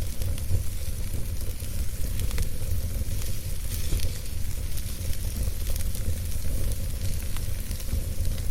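Wood campfire burning, with many small crackles and pops over a steady hiss and a low rumble.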